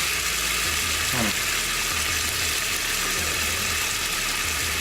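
Mixed vegetables frying in hot olive oil in a pan, with a steady sizzle.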